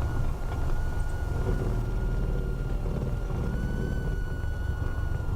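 Cessna 172R cabin noise after touchdown: the Lycoming four-cylinder engine idling with a steady low rumble, and a thin steady whine held over it.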